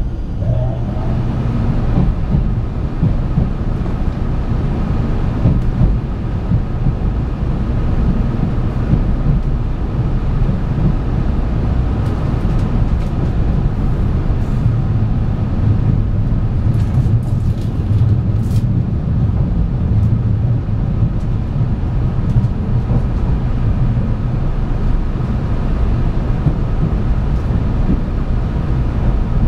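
Running noise of a 700 series 7000 Shinkansen train heard from inside the car: a steady low rumble of wheels on rail with a faint steady tone above it, and a few light ticks in the middle.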